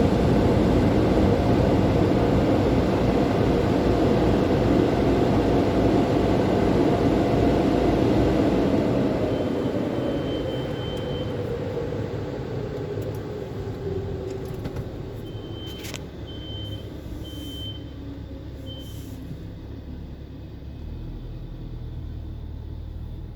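Car wash dryer blowers running loud, then winding down, their hum slowly falling in pitch and level from about a third of the way in. A few short high beeps sound midway.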